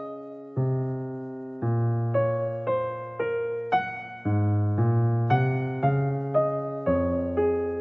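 Gentle electric piano music, notes and chords struck one after another, each fading before the next.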